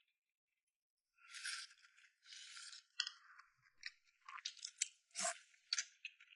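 Close-up eating sounds: a person slurping and chewing in short noisy bursts, with a few sharp clicks, after about a second of silence.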